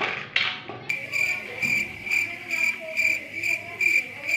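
A brief whoosh, then a cricket-like chirping from about a second in: a high trilling tone that pulses about twice a second.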